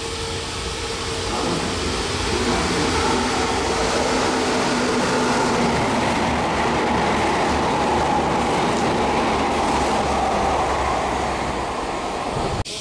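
Meitetsu electric train passing through a station at speed without stopping: a loud, steady rush of wheels on rail that builds about a second and a half in and holds, then cuts off suddenly near the end.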